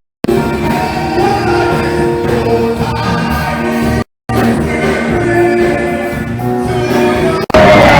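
Church choir singing gospel music with held notes. The sound cuts out to silence twice, briefly at the very start and about halfway through, and jumps louder shortly before the end.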